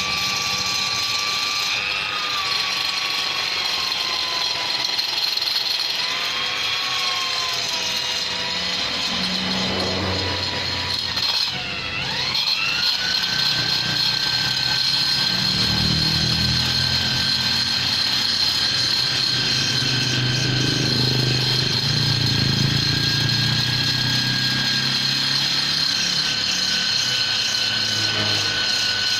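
Rotary grinder with a tuner burr running with a continuous high whine, its pitch wavering and sagging as it cuts metal while reshaping the ports of a Vespa cylinder. About eleven seconds in the pitch dips sharply, then climbs to a higher steady tone.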